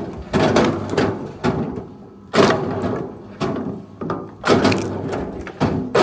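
Wood being handled: a run of about eight sharp wooden knocks and cracks, roughly one every half second to second, as of logs or firewood striking one another, over a low steady hum.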